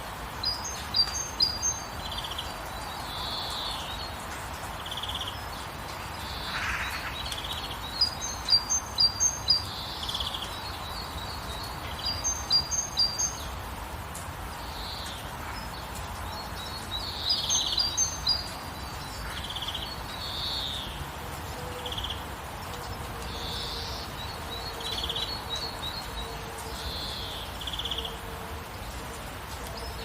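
Steady rain falling, with several birds singing over it: one bird repeats a rapid run of high, sharp chirps several times, while others add shorter, lower calls in between.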